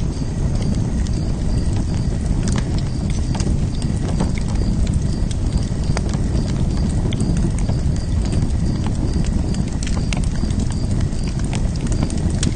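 Open fire crackling: a steady low rumble of burning, with frequent sharp pops and snaps at irregular moments.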